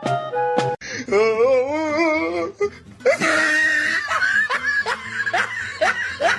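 A few notes of music cut off abruptly, then a single long call whose pitch wobbles up and down, then hard laughter in quick, wheezy, rising bursts.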